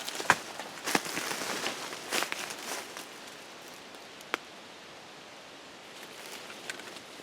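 Footsteps and rustling in dry leaves and brush, several crunching steps in the first three seconds, then quieter, with a single sharp click about four seconds in.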